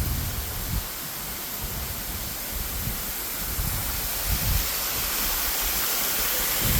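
Steady rush of falling water from a landscaped waterfall, growing louder toward the end, with low buffeting on the microphone.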